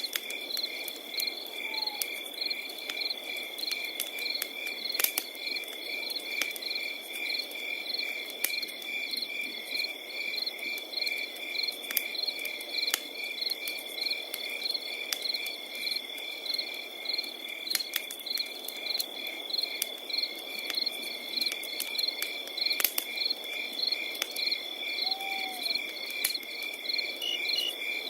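Crickets: one steady unbroken high trill and another chirping in a regular beat of about two to three chirps a second. Scattered pops and crackles of a burning wood fire sound through it.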